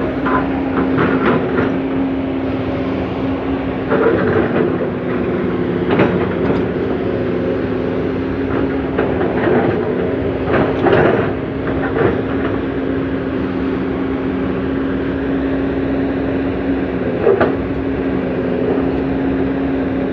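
Komatsu PC200CE excavator's diesel engine running steadily under load while digging, with irregular metallic clanks and knocks from the working bucket and arm every few seconds.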